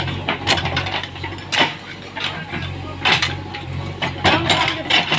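Tractor engine running steadily beneath irregular metallic clanks and rattles.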